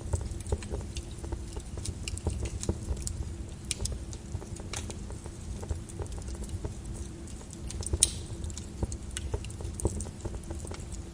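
Flowing lava crackling, with irregular sharp pops and clicks over a steady low rumble; one louder crack about eight seconds in.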